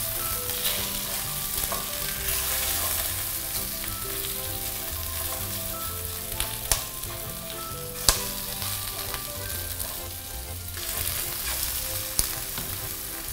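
Chicken breast sizzling in olive oil in a frying pan over low heat, with herb sprigs in the pan. About halfway through come two sharp clicks of the metal tongs against the pan.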